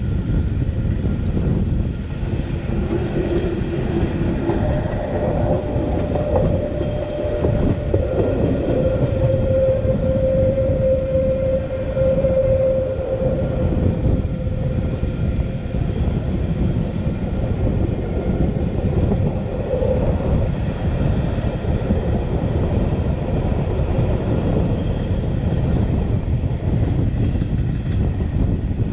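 Metre-gauge Matterhorn Gotthard Bahn regional train, hauled by an HGe 4/4 locomotive, running along the line and heard from on board: a steady rumble throughout. In the first half a lower held tone and a high thin squeal sound together for a few seconds, then fade.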